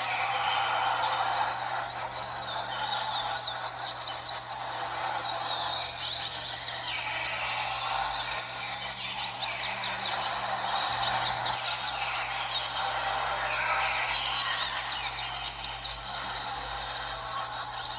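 Many double-collared seedeaters (coleiros) singing at once in a competition circle, their quick, high songs overlapping without a break.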